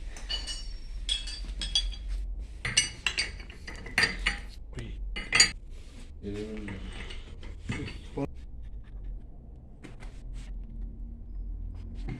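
Metal-on-metal clanking and clinking as steel tools and booster-pump parts are handled and knocked together, a run of sharp ringing knocks, the loudest about five seconds in, then fewer and fainter ones after about eight seconds.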